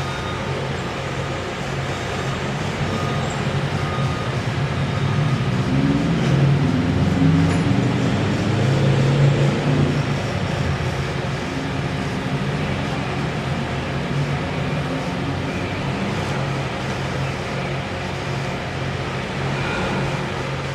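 An engine running steadily, with a low hum. Between about six and ten seconds in its pitch rises and falls in steps as it works harder, then it settles back.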